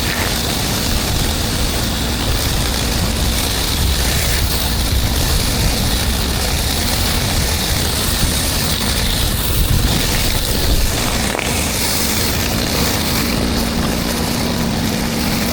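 Pressure washer running steadily: a low engine rumble under the hiss of high-pressure water spraying concrete.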